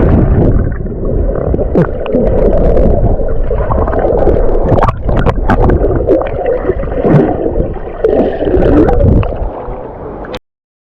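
Loud, muffled water gurgling and sloshing close to the microphone, with scattered clicks; it cuts off suddenly near the end.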